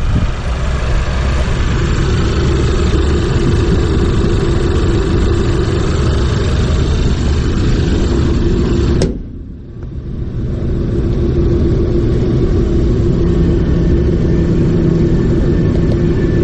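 Honda Civic Type R's 2.0-litre turbocharged four-cylinder engine idling steadily, heard close up. About nine seconds in the sound drops away suddenly and comes back over a second or two.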